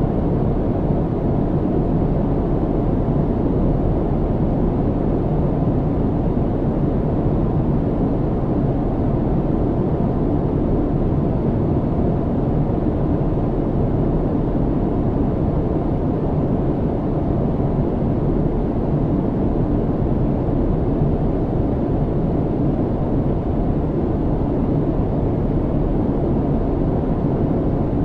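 Steady cabin noise of an airliner in flight, heard from inside the cabin: an even, deep hiss with no changes.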